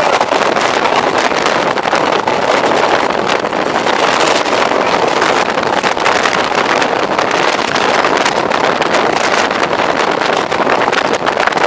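Moving passenger train's running noise: a steady loud rush of wheels on track and air, with fine rattling throughout.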